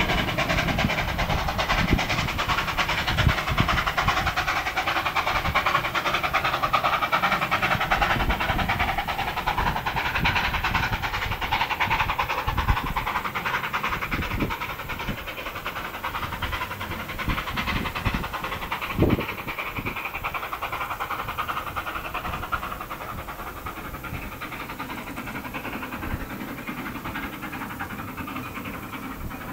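Metre-gauge museum train rolling along the track: wheels on the rails with irregular knocks and clatter, and a sharper knock about 19 seconds in. It grows fainter over the second half as the train moves away.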